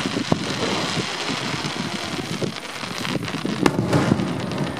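Aerial firework shells bursting at a distance: a few sharp bangs, one about a third of a second in and a louder one past the middle, over a steady background noise.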